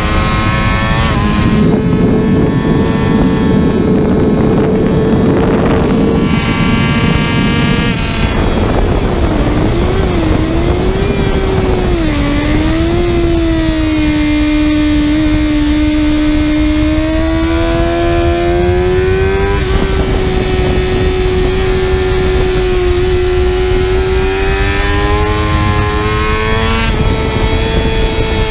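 2020 Kawasaki ZX-6R's 636 cc inline-four running hard on a racetrack. The engine note holds high, drops sharply about eight seconds in and wavers as the bike slows, then climbs slowly through the gears with a couple of shift steps, under a rush of wind noise.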